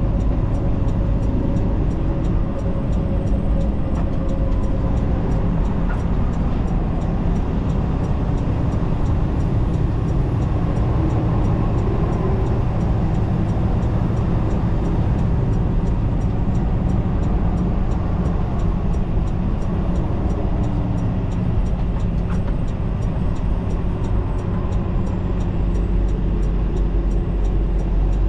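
Semi-truck cab at highway cruise: the steady drone of the diesel engine and road noise, with a faint, regular clicking of the hazard flashers.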